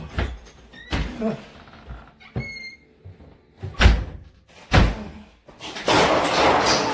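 Clothes dryer being handled during repair: a run of separate knocks and bumps, a short high squeak about two and a half seconds in, then loud steady scraping and rubbing from about five and a half seconds in.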